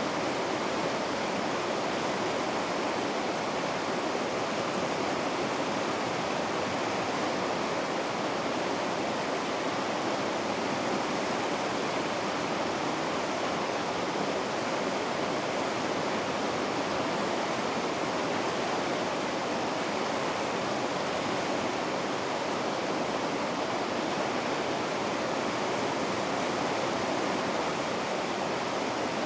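Steady rush of river rapids at Vikaköngäs: fast water pouring over rocks, an even, unbroken roar.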